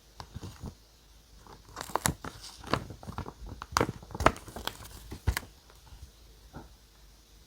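Paper being handled close up, with irregular crinkling and tearing sounds, densest for about three seconds in the middle and then stopping.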